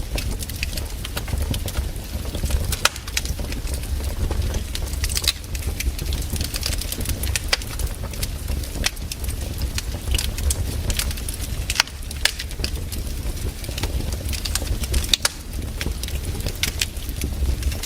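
Wood campfire burning, with frequent irregular crackles and pops over a steady low rumble.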